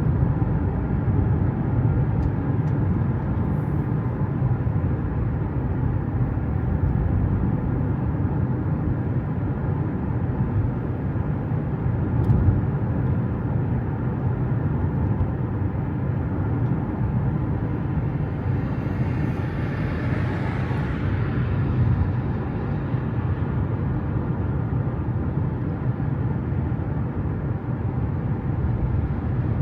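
Steady low rumble of a vehicle on the move, with a brief swell of hiss about twenty seconds in.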